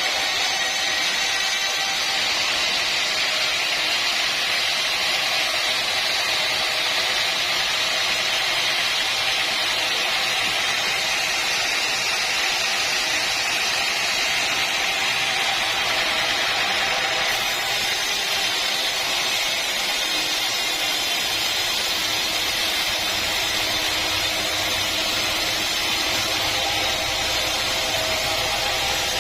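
Sawmill machinery running steadily, a continuous mechanical whir, with a low rumble coming in about two-thirds of the way through.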